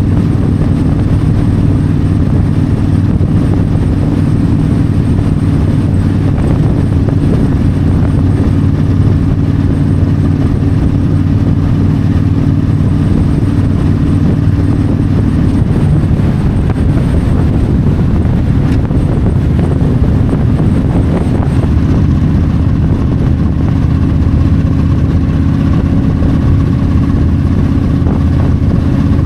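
Yamaha V-Star 1300's V-twin engine running steadily on the open road, with wind noise. Past the middle the engine note wavers for a few seconds, then steadies again.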